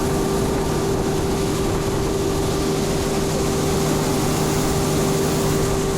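Combine harvester running steadily at working speed: a constant engine and machinery drone with a steady hum.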